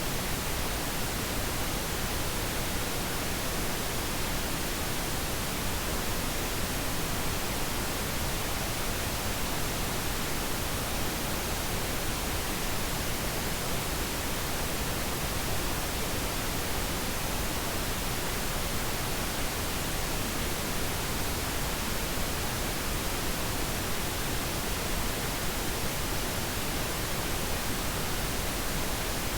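Pink noise: a steady, even hiss spread across all pitches, unchanging throughout, played as a sleep aid.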